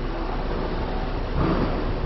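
Heavy truck's diesel engine running steadily, with no distinct strikes or knocks standing out.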